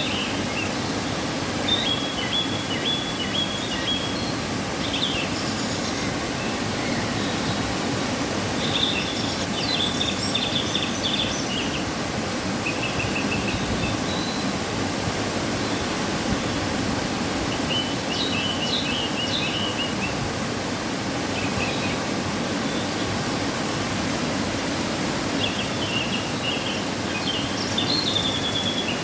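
Waterfall after rain rushing steadily, with a songbird chirping in short phrases several times over it.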